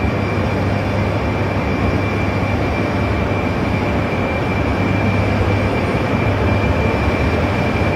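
A 200 series Shinkansen electric train pulling slowly out of the station, with a steady running noise, a low hum and a thin, steady high tone, growing a little louder near the end.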